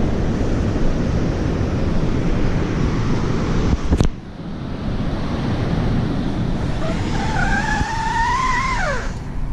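Outdoor rush of traffic and wind on the microphone, with a sharp click about four seconds in. Near the end a vehicle's high whine rises slowly for about two seconds, then drops away steeply.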